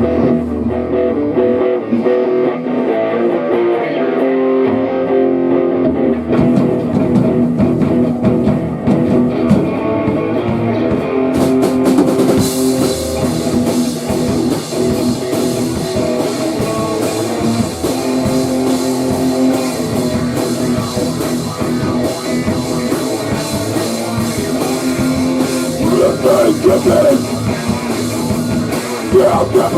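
Grunge rock band playing: guitar riffing, with the drum kit and cymbals coming in about twelve seconds in.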